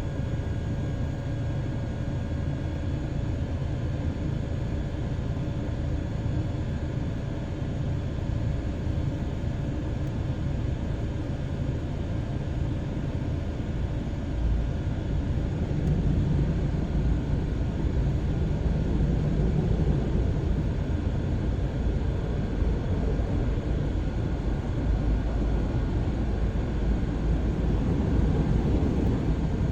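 Car wash machinery running: a steady low rumble with a few faint steady tones, growing louder about halfway through.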